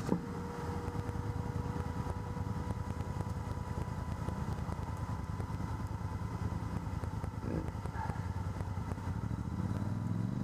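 ATV engine running at low, fairly steady revs, with a thin steady whine over the first few seconds. A short knock comes right at the start.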